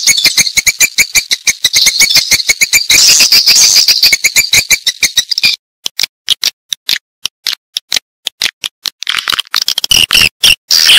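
Swiftlets calling: a fast, dense chatter of high chirps and clicks that thins to scattered single clicks about halfway through, with the chirping chatter picking up again near the end. This is a swiftlet-house lure call.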